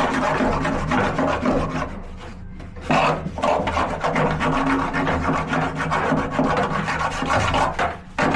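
Dirty washing machine spider being scraped, a rough rasping noise of the tool dragging through caked buildup on the metal. The scraping pauses for about a second around two seconds in and briefly again near the end.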